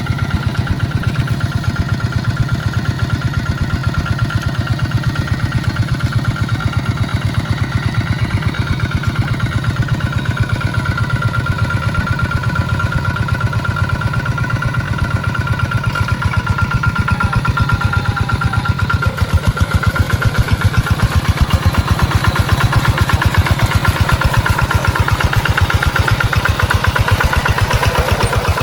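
Tractor engine running steadily with a fast, even pulse, growing a little louder about two-thirds of the way through.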